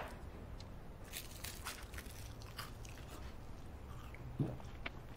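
Someone biting into and chewing crispy fried chicken coated in galbi-marinade sauce: a scatter of small crisp crunches and crackles, then a duller thump about four and a half seconds in.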